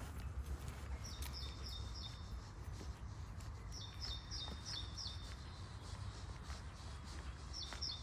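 A small songbird singing a short phrase of four or five quick repeated high notes, three times, over a steady low rumble.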